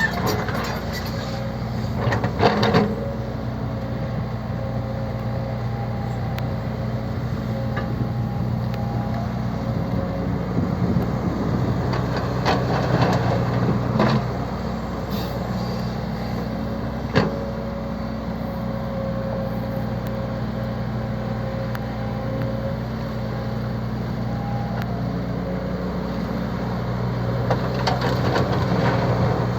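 Truck engine running steadily, with a few sharp knocks and clatters on top.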